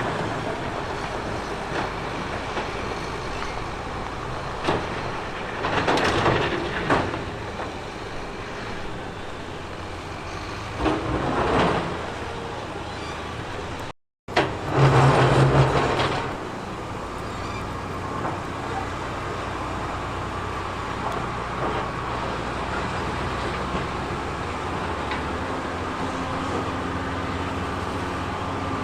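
Heavy earthmoving machinery running steadily, with three louder bursts of rushing noise about six, eleven and fifteen seconds in, and a brief gap of silence just before the last one.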